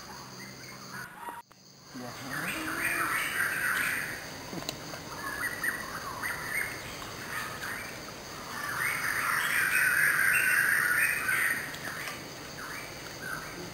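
Wild birds calling in bursts of harsh, chattering calls, with two loud spells: one a couple of seconds in and a longer one about nine seconds in.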